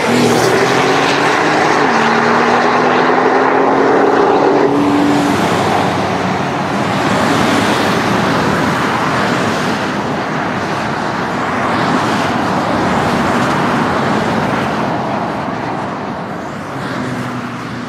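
Car engine accelerating hard, its note climbing, dropping with an upshift about two seconds in, then climbing again for a few more seconds. This runs over steady motorway traffic and tyre noise, which carries on once the engine fades.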